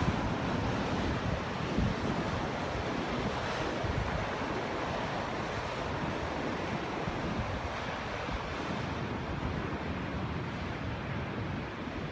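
Ocean surf breaking and washing on the beach in a steady roar, with wind buffeting the microphone in a few low thumps.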